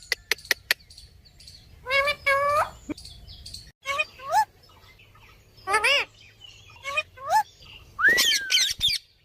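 Pet parrot making about five short, pitched calls that bend up and down in pitch, with pauses between them. The calls follow a quick run of clicks at the start.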